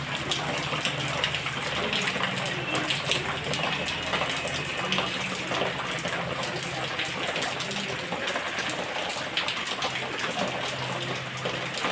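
Heavy rain pouring down, a steady rush of water with scattered sharp drop splashes.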